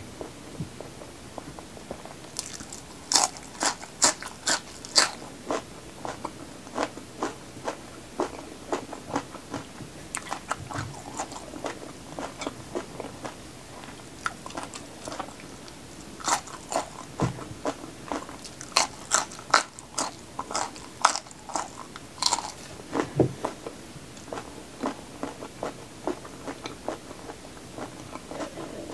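Close-miked crunching and chewing of raw vegetables: crisp, sharp bites and crunches come in bunches, loudest a few seconds in and again in the second half, with softer wet chewing between.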